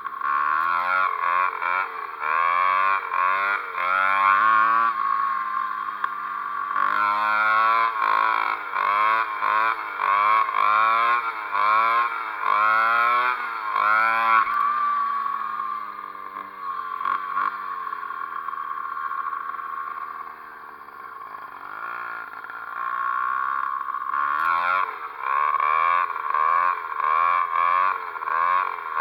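Ported Zeda 80 two-stroke motorized-bicycle engine, its throttle worked up and down over and over so the buzzing note rises and falls about once a second. It settles to a lower, steadier run for several seconds in the middle, then revs up and down again near the end.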